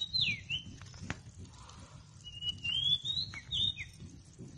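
A songbird singing: a phrase of high whistled notes that glide up and down, ending just after the start, then a second phrase about two seconds in. A single sharp click comes about a second in, over a low rumble.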